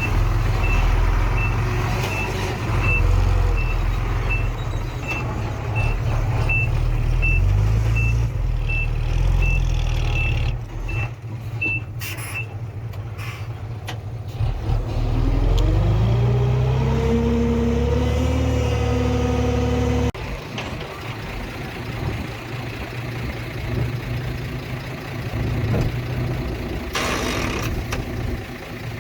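Heavy diesel earthmoving machinery: a reversing alarm beeps steadily, under two beeps a second, over a running engine and stops about twelve seconds in. Around fifteen seconds in an engine revs up, holds high for a few seconds and drops suddenly about twenty seconds in, leaving a lower idle.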